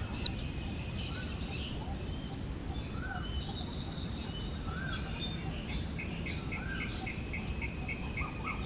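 Forest ambience: a steady high insect drone under a low rush of breeze, with birds chirping. A bird gives single rising-and-falling notes every couple of seconds, and a quick run of short high chirps, about three or four a second, starts in the last few seconds.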